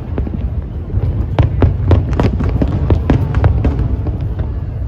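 Aerial fireworks display: a quick run of sharp bangs and crackles, about two to three a second, over a continuous low rumble.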